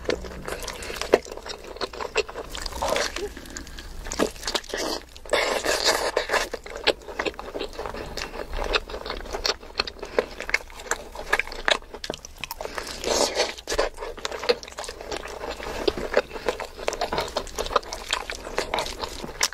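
Close-miked wet chewing and biting of mutton curry and rice eaten by hand, with many sharp mouth clicks and smacks following one another.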